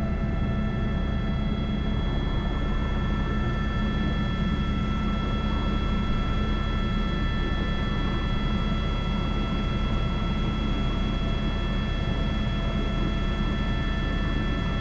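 Airbus H125 (AS350 B3) single-turboshaft helicopter in steady forward flight carrying an external sling load: a deep, even rotor and engine rumble with steady high whines from the turbine and gearbox, heard from inside the cockpit.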